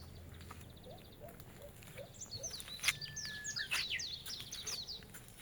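Songbirds chirping and singing faintly: many short, high, falling notes, busiest in the second half.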